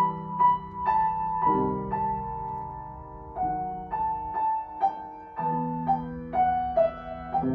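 Piano playing a slow melody, a note roughly every half second, over low held bass notes that change every couple of seconds.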